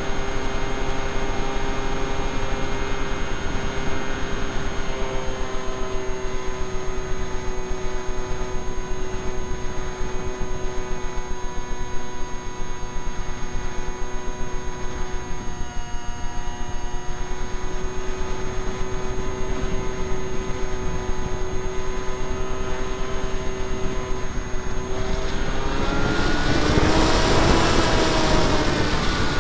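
Brushless electric motor and 7x6 propeller of a Skyartec Skyfun foam RC jet, heard from its onboard camera: a steady whine over a rush of wind. The whine fades briefly about halfway, then rises in pitch and loudness near the end.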